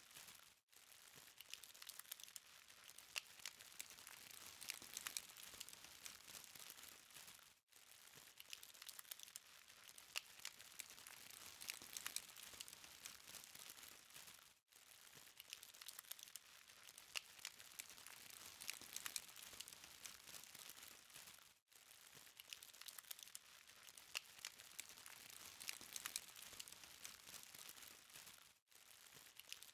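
Charcoal burning in a BBQ fire, a soft hiss with many small, sharp crackles and ticks. The sound dips out briefly about every seven seconds.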